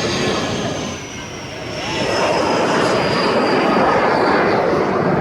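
Jet aircraft flying past low: a rushing engine roar that swells about two seconds in and stays loud, with a high turbine whine slowly falling in pitch.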